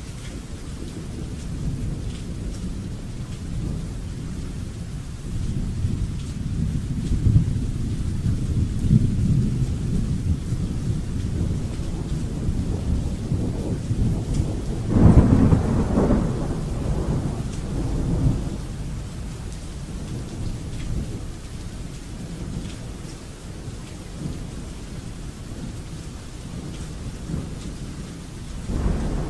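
Thunderstorm: steady rain with rolling thunder that builds and peaks in a louder clap about halfway through, then rumbles away.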